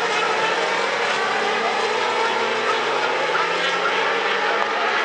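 Racing motorcycle engines running on the circuit: a steady drone of several engines at high revs, their pitches drifting up and down.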